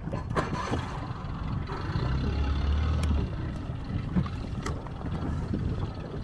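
Small motorboat's engine running at low idle: a steady low rumble with water noise over it and a few faint knocks.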